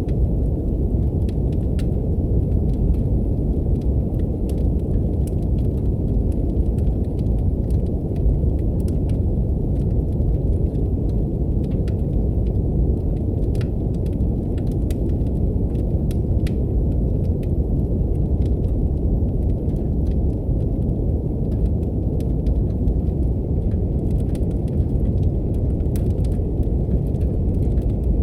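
Steady brown noise, a deep even hiss, mixed with the faint, sparse crackles and pops of a wood fire in a fireplace.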